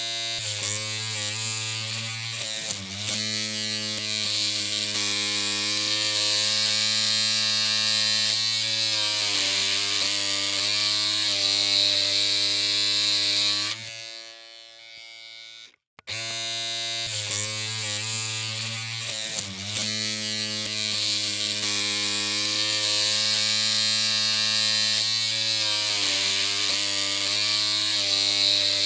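Electric hair clippers running with a steady buzz. The sound cuts out about fourteen seconds in and starts again a couple of seconds later.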